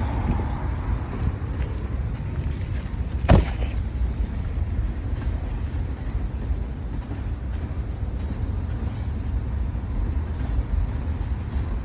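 Freight train rolling past with a steady low rumble, and one sharp knock about three seconds in.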